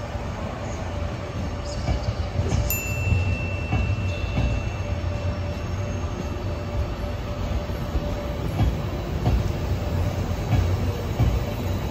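Passenger train running on the rails: a steady low rumble with irregular wheel knocks. About three seconds in, a thin high tone sounds for roughly two seconds.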